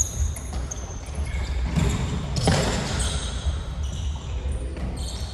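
Indoor futsal play on a sports-hall court: short, high sneaker squeaks on the floor, repeated many times, with the thuds of the ball being kicked and a louder burst of noise about two and a half seconds in, all echoing in the hall.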